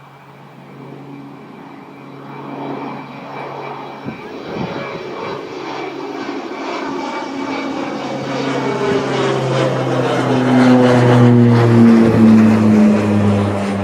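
Boeing 757-200's Pratt & Whitney jet engines growing steadily louder as the airliner comes closer, then its engine tones dropping in pitch as it passes by in the last few seconds.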